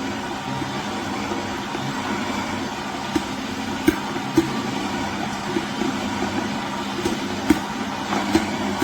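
Electric juicer's motor running steadily, with irregular sharp clicks and knocks over the hum.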